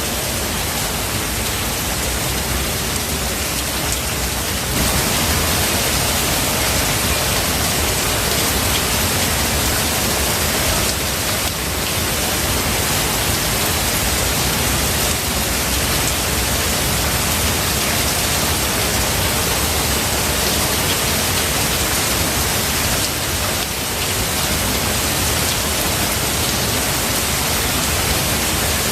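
Steady heavy rain: a dense, even hiss of falling rain that gets a little louder about five seconds in.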